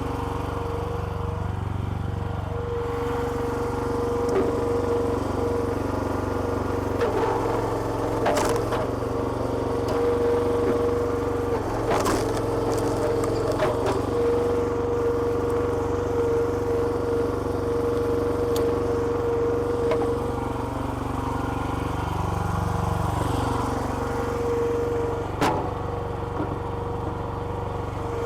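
Small petrol engine of a hydraulic log splitter running steadily, its pitch dipping briefly a couple of times. A few sharp cracks or knocks sound over it.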